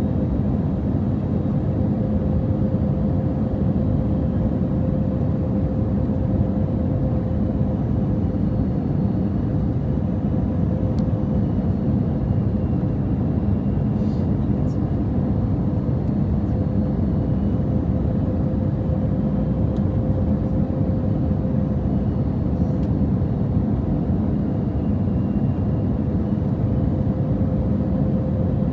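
Airbus A320 cabin noise while taxiing after landing: a steady low rumble from the engines at idle, with a constant hum running through it and a few faint ticks.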